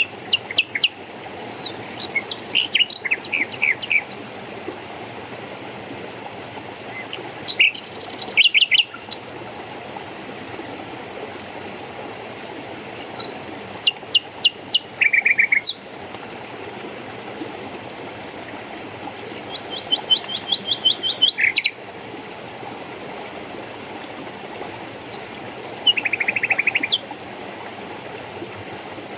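Songbirds singing short phrases of quick, high chirping notes every few seconds, over a steady rush of running water.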